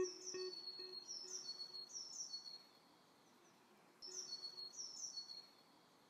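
Bird chirping: two short bouts of quick, high sweeping chirps, the second starting about four seconds in, as the last plucked guitar note fades at the start.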